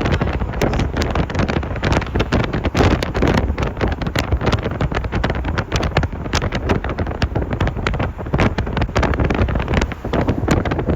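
Loud wind buffeting the microphone, a steady rushing with frequent crackling gusts.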